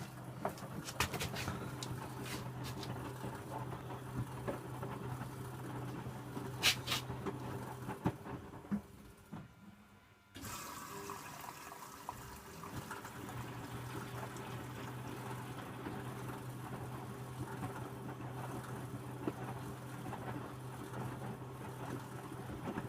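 Electrolux W455H commercial washing machine running water into its drum with a steady motor hum, likely the cool-down fill after a 65-degree main wash. There are a few sharp clicks in the first few seconds. Midway the sound fades and stops for about two seconds, then the water starts again abruptly.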